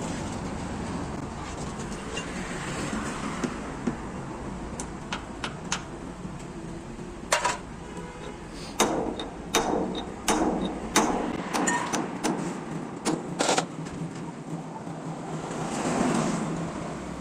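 A dozen or so sharp clanks and knocks, some with a brief metallic ring, from work on a truck wheel hub, over a steady low hum. Near the end a rush of noise swells and fades, like a passing vehicle.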